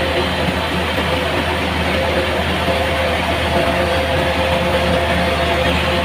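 A heavy engine of a rice-harvesting machine running steadily, with a constant low hum and a steady whine.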